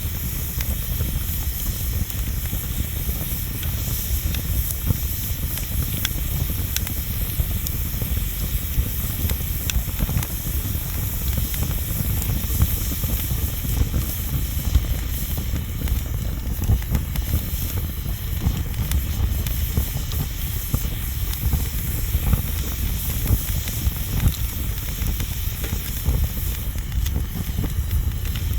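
Wood bonfire burning with a steady hiss and low rumble, with scattered sharp crackles and pops.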